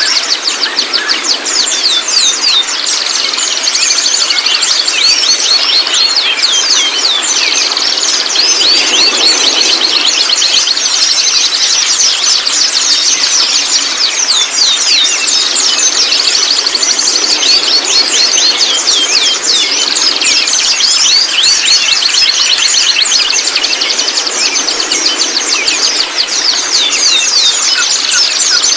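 White-rumped shama song and calls: a dense, unbroken stream of rapid high chirps and quick downward-sweeping whistles, with a thin steady high tone beneath.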